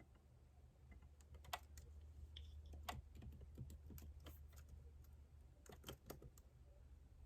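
Faint typing on a computer keyboard: scattered, irregular keystroke clicks, some in quick clusters, over a steady low hum.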